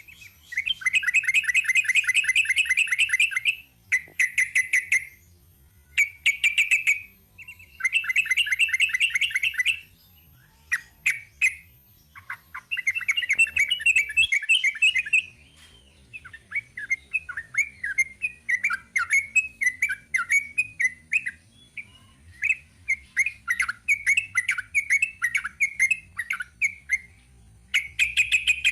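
Sooty-headed bulbul (trucuk) singing its long rolling song: bursts of fast repeated notes lasting a couple of seconds each, then a long run of shorter chattering phrases in the second half.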